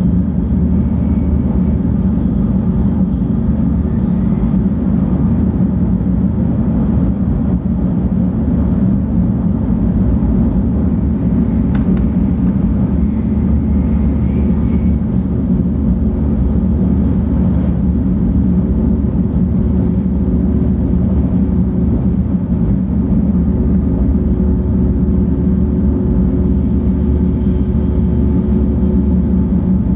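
Running noise inside the passenger car of a 700 series Shinkansen at speed: a steady low rumble with a few faint steady tones, and one brief click about twelve seconds in.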